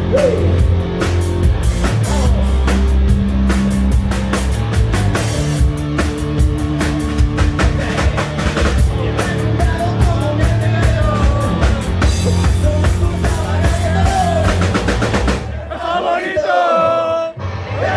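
Hard rock band playing live: drum kit pounding under bass and electric guitars. Near the end the drums and bass drop out for a moment, leaving a wavering melodic line, before the full band comes back in.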